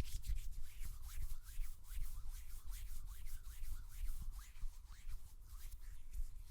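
Hands rubbing together fast close to the microphone: a quick, even run of swishing strokes, several a second.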